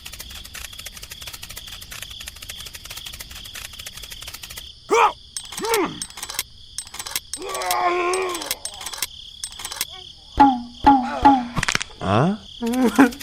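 Steady high insect chirring with fast ticking, broken by a few short, pitched voice-like calls from about five seconds in.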